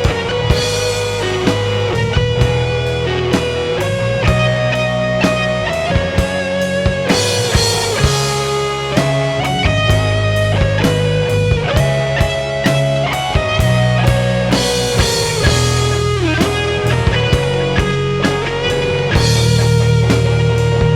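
Instrumental break of a live rock ballad: electric guitar carrying a lead melody over bass and a drum kit keeping a steady beat.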